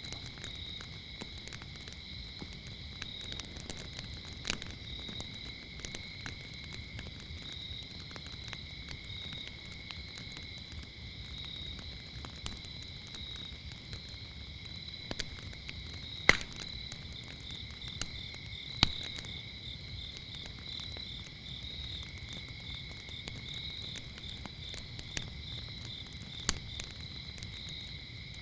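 Crackling wood fire with scattered sharp pops, the loudest a little past halfway, over crickets trilling steadily at two pitches. From a little past halfway another insect adds a rapid, evenly pulsed chirp.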